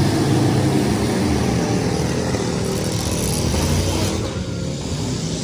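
Several full-size trucks' engines running and revving together in a demolition derby heat. The sound is steady and dips slightly about four seconds in.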